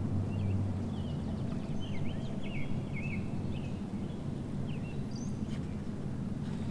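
Songbirds chirping: a run of short rising and falling calls, most of them in the first half, over a steady low rumble.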